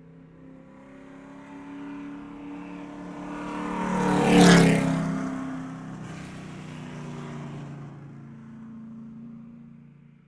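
A car driving past: its engine hum builds to a loud peak about four and a half seconds in, then fades away.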